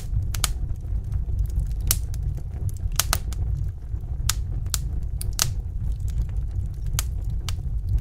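Fireplace fire burning with a low steady rumble and sharp crackles and pops from the burning wood at irregular intervals.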